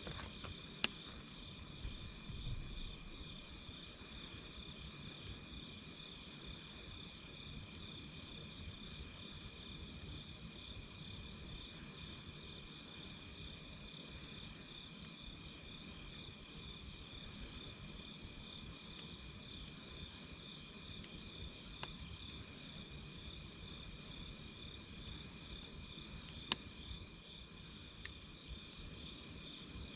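Crickets chirping steadily in a fast, pulsing trill, with a few sharp pops from a crackling campfire, the loudest about a second in and twice near the end.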